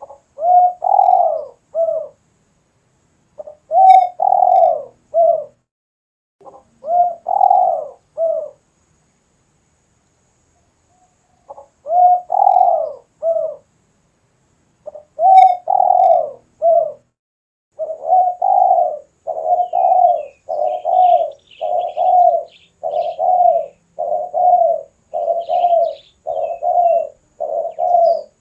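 Spotted dove cooing: repeated phrases of a few low coos, spaced by pauses at first, then running together about once a second through the last third.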